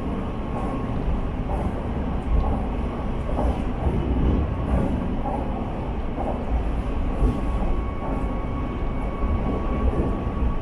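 Nankai Rapi:t express train running steadily, a continuous rumble of wheels on track with a faint steady whine.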